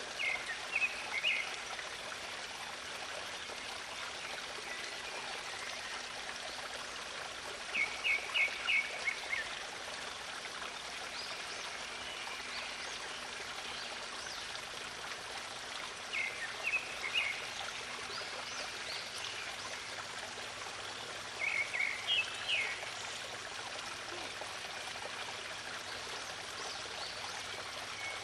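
Steady rushing sound like running water, with a bird calling over it in short runs of quick, high chirps, four times, several seconds apart.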